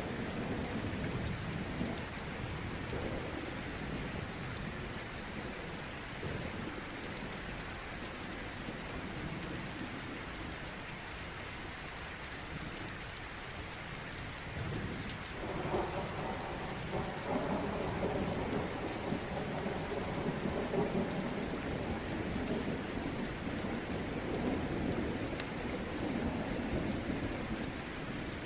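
Steady rain with low rolling thunder, the rumble swelling about halfway through. Many small sharp crackles run through it, as from a wood fire crackling in a fireplace.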